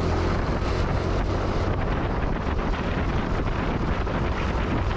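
Wind buffeting the microphone on a moving motorbike, over the bike's steady low engine drone.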